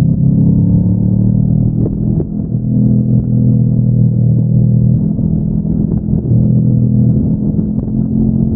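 Honda NX500's parallel-twin engine running on the stock exhaust under steady riding load, its note holding fairly even with small changes in throttle about two and five seconds in.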